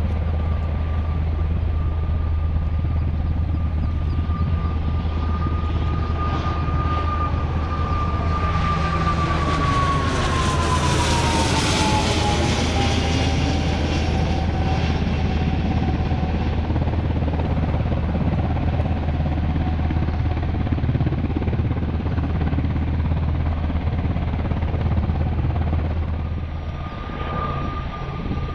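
An aircraft flying past. Its engine whine holds steady, then drops in pitch as it goes by, about ten to fourteen seconds in, with a swell of rushing noise at the closest point, over a steady low drone.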